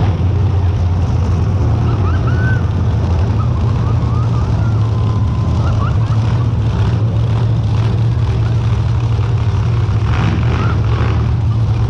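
Several monster truck engines running together at a steady idle, a constant low drone.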